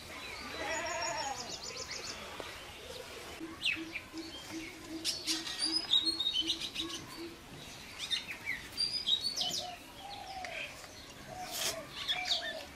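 Several birds chirping and calling, with short high chirps throughout. In the middle, a low note repeats about three times a second for a few seconds.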